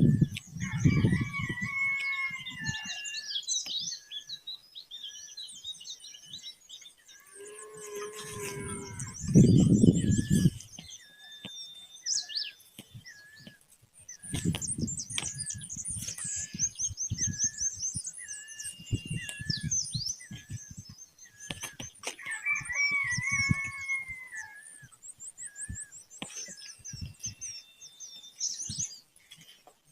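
Several songbirds chirping and singing at once, with a mix of high trills and tweets. One bird repeats a short call about once a second throughout. A few low rumbles come and go, the loudest about ten seconds in.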